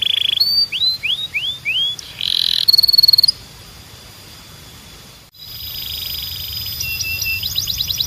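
Canary singing: a run of quick upward-sweeping whistled notes, then a buzzy rattle and a fast trill. There is a quieter pause about halfway through, and the song resumes with a held note and a rapid run of notes near the end.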